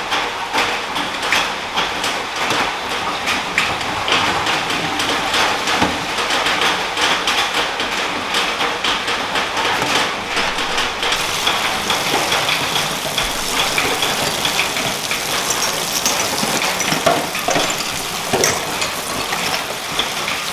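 Steady heavy rain falling, a dense continuous patter of drops.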